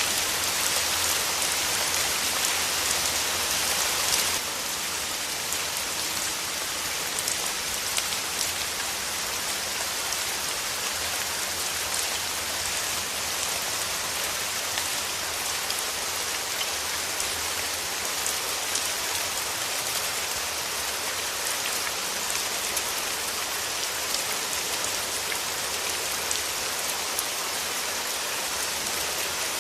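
Steady rain falling, with many individual drops heard as sharp ticks on a surface. It becomes slightly quieter about four seconds in.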